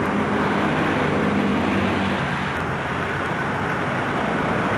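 Car running, with a steady hum of engine and road noise as heard from inside the car.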